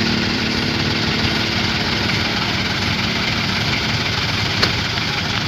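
Truck engine running steadily through a 'chung Takalar' style custom exhaust, with a low hum that fades out about halfway. A single sharp click comes near the end.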